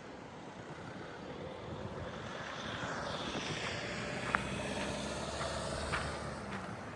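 Engine drone of a passing motor vehicle or aircraft, swelling gradually over a few seconds and then easing slightly, with one sharp click about four seconds in.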